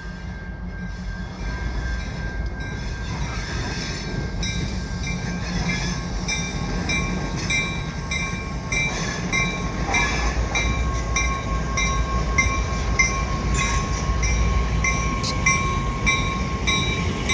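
Two EMD diesel road-switcher locomotives, a GP38-2 and a GP40-2W, rumbling slowly through a tight curve, with high ringing strokes about twice a second from about four seconds in. A steady high wheel squeal joins from about ten seconds in, the flanges grinding against the rail on the sharp curve.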